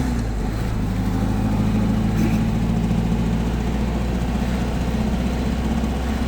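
Old car's engine running steadily while driving, heard from inside the cabin, with road noise.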